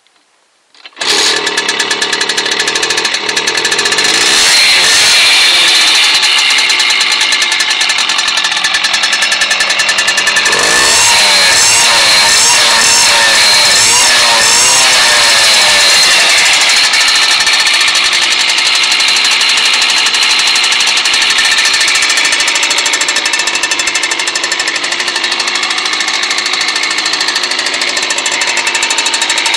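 Simson moped's two-stroke single-cylinder engine, bored to 70 cc and fitted with a sport exhaust, starting about a second in and running loud. It is blipped in a series of quick revs in the middle, then settles back to a steady idle.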